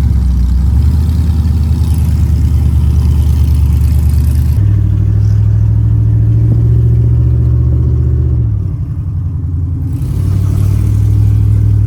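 Pickup truck's engine running hard under throttle, holding a steady pitch and stepping to a new pitch about four and a half and again about eight and a half seconds in, as the transmission shifts gears.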